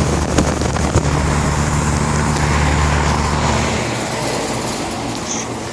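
Air conditioner running: a steady low electrical hum with a rush of fan air, the hum cutting off about four seconds in while the airflow continues.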